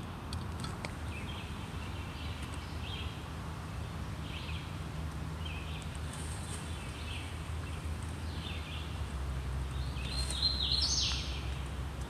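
Birds calling in woodland: short calls repeating every second or so, with a louder call in several steps about ten seconds in, over a steady low background rumble.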